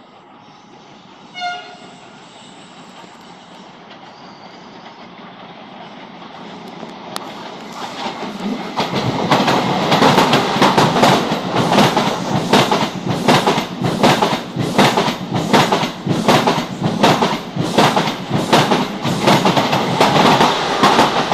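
A Renfe train approaches, giving a short horn blast about a second and a half in, then runs close past, loud from about nine seconds in, its wheels clattering over the rail joints about twice a second.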